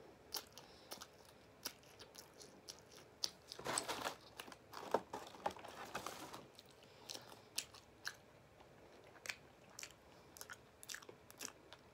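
A person chewing crisp food close to the microphone: quiet, with scattered crunching crackles that thicken into denser spells of crunching about four and six seconds in.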